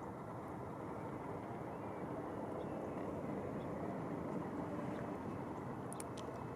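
Steady low rumble of outdoor background noise, swelling slightly midway, with a few faint high clicks about six seconds in.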